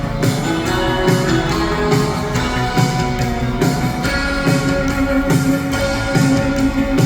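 Rock band playing live, with electric guitars and a steady drum beat.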